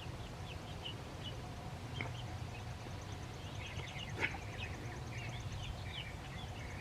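Soft, scattered bird chirps over a steady low background hum, with a faint rapid ticking high up through the middle and two light clicks about two and four seconds in.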